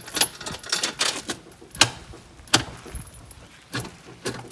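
Metal chain clinking and rattling in irregular knocks as it is handled and tied on.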